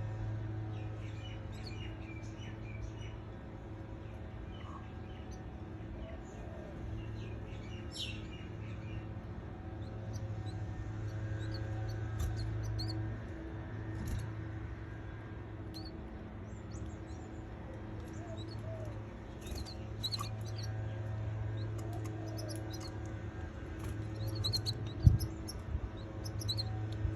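Baby canaries chirping in short, scattered high peeps over a steady low hum, with a single thump near the end.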